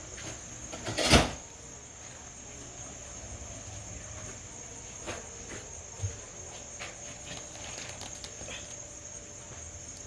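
Insects chirring steadily and high-pitched, with one sharp knock about a second in and a few faint clicks later on.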